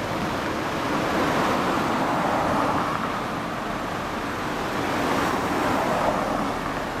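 Road traffic noise: a steady rushing that swells twice as vehicles pass.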